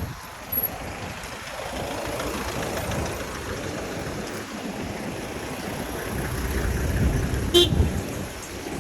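Street traffic: a motor vehicle's rumble grows louder as it passes. A short horn toot sounds near the end.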